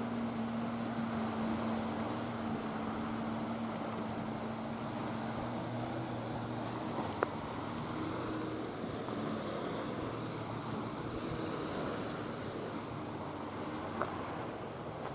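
A distant engine drones steadily and fades away about halfway through, over a steady outdoor rushing. A continuous high, thin insect trill runs through it, and there are two faint clicks.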